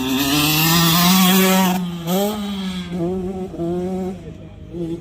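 Motocross dirt bike engine revving hard, its pitch climbing for nearly two seconds, then the throttle shut off and blipped in a few short bursts.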